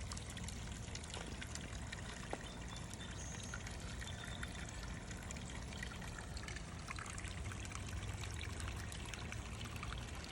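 Small garden-pond waterfall: water spilling and trickling steadily into the pond, with fine splashing.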